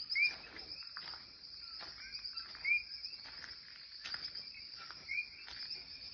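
Rainforest chorus of insects: a steady high buzzing, with short rising chirps about every two to three seconds and scattered faint clicks.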